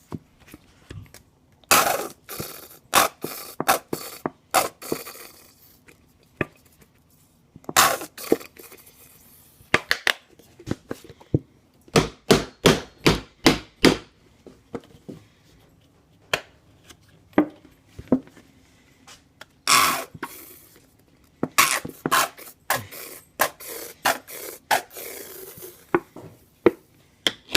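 Nearly empty plastic ketchup squeeze bottle being squeezed over and over, sputtering with short spurts of air and ketchup, some coming in quick runs, with scraping sounds in between.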